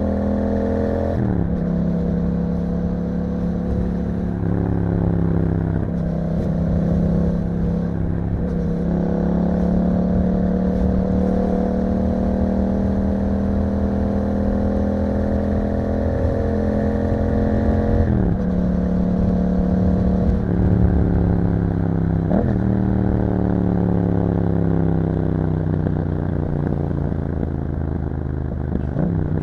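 Yamaha MT-07's 689 cc parallel-twin engine through an Akrapovič exhaust, under way on the road. The engine note climbs steadily under throttle and drops sharply several times at gear changes or when the throttle is rolled off.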